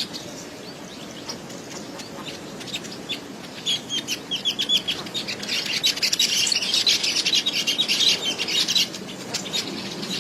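Caged songbird singing a fast stream of short, high chirps. The notes come sparsely at first, then pack into a dense, loud run from about four seconds in, and thin out again near the end.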